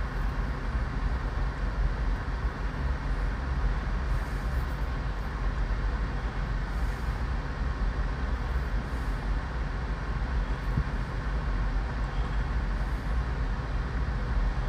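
Steady low rumble of outdoor background noise with an even hiss above it, without distinct events.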